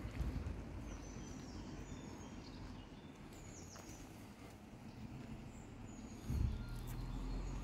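Small birds chirping and whistling in short high calls over a low outdoor rumble; about six seconds in, a low steady hum comes in under them.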